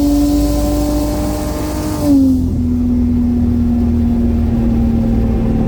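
Single-turbo BMW N54 straight-six pulling hard at full throttle under boost, with a gear change about two seconds in: a brief spike in loudness, the engine note drops in pitch, then it climbs again.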